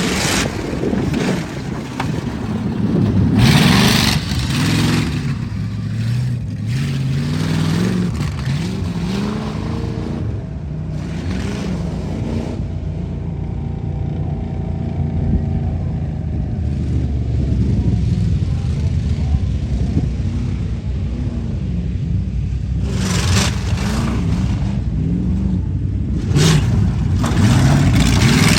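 Truck engine revving hard at a tuff-truck run, its pitch climbing and falling again and again as the throttle is worked, with several loud bursts of rushing noise along the way.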